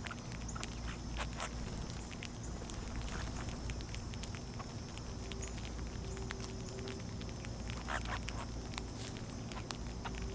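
Birds feeding at a backyard feeder: scattered short clicks and taps, with a few brief chirps, over a steady high drone.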